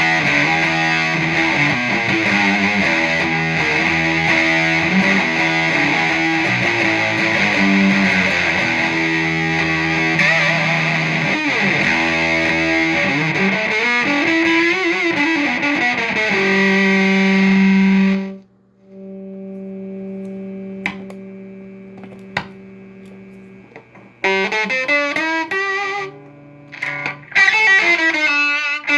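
Fender Esquire electric guitar played through the two fuzz channels of a stomp-box fuzz pedal stacked together, a thick, heavily distorted riff. About 18 seconds in the dense fuzz cuts off abruptly, leaving a quieter sustained note. Loud, choppy fuzzed chords start again near the end.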